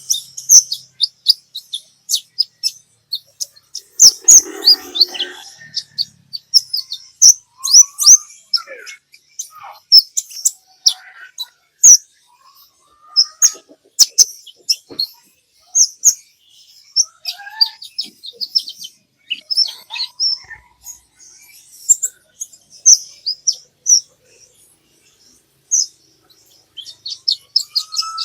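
Sunbird (kolibri ninja) song: rapid runs of very short, high-pitched chirps and twitters with occasional lower whistled notes, as used to trigger a caged sunbird to sing. A short, lower, noisier sound comes about four seconds in.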